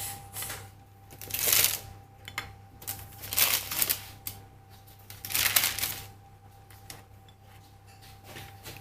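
Three short bursts of scraping and rattling, about two seconds apart, over a faint steady hum.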